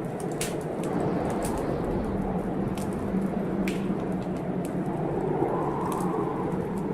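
Wood fire crackling, with irregular sharp pops over a steady storm noise.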